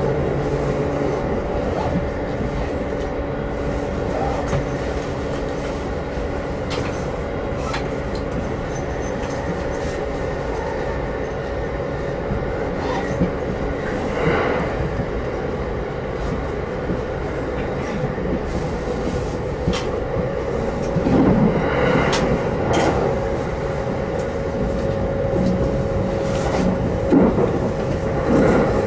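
Electric passenger train heard from inside the car while running at speed: a steady rumble of wheels on the rails with a steady whine over it and occasional clicks and knocks.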